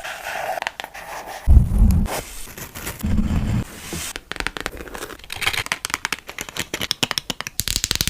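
Rapid crackling and scratching close to the microphone, with two dull low thuds about one and a half and three seconds in.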